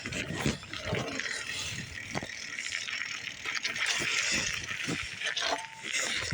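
Irregular rattling and clicking of a bicycle being handled while a part is adjusted, mixed with knocks from the hand-held phone being moved about.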